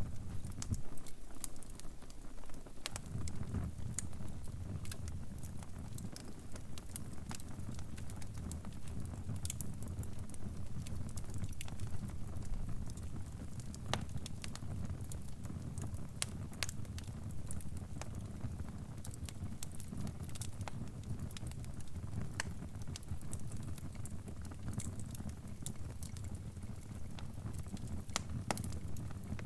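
Crackling fire: a steady low rumble with scattered, irregular sharp snaps and pops.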